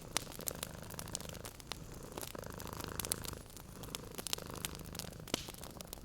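Domestic cat purring steadily, rising and falling in slow breaths, over a wood fire crackling with many sharp pops.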